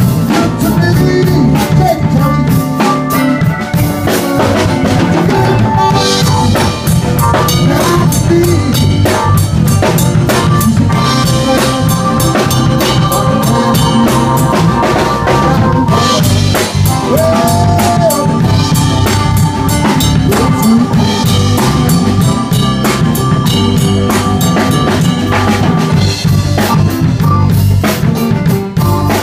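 Live blues band playing an instrumental passage, with a drum kit keeping a steady beat on bass drum and snare under sustained instrument lines.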